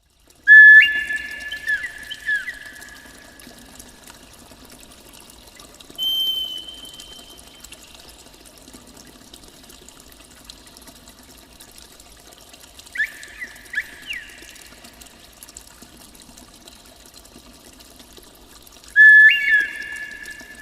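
Four short whistled bird calls a few seconds apart, each a clear held note with small slides in pitch, over a steady wash of running water in a forest ambience.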